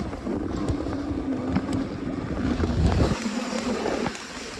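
Dog sled moving over snow: runners sliding steadily, with wind on the microphone.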